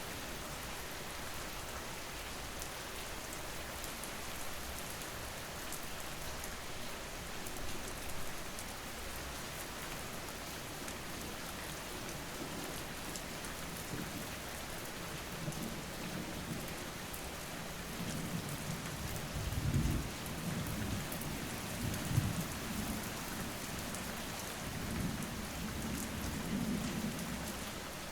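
Steady rain falling, with low rolls of thunder rumbling through the second half, loudest at two swells a couple of seconds apart.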